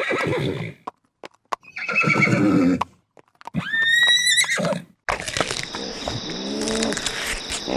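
Horse whinnying: the tail of one call at the start, then a full high-pitched whinny about three and a half seconds in that climbs and falls away. From about five seconds a different, noisier sound with a steady high tone takes over.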